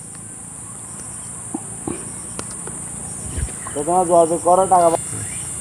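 Steady high-pitched chirring of insects, with a few faint clicks and a brief voice about four seconds in.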